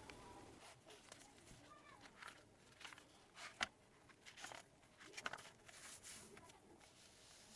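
Quiet handling of stationery on a desk: soft rustles and scattered light taps and clicks, with one sharper click about three and a half seconds in.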